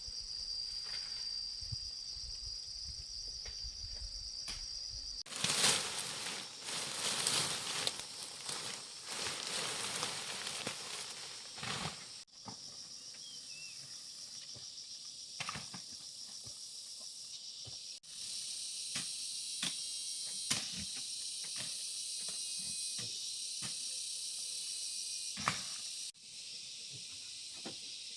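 Insects trilling steadily and high-pitched in the background, with scattered knocks and clicks and a louder stretch of rustling and scraping partway through.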